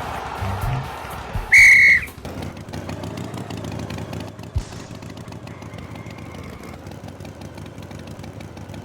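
One short, loud, high whistle blast on a single steady pitch, lasting about half a second, as the music stops. A quieter steady noise follows, with a single soft thud a few seconds in.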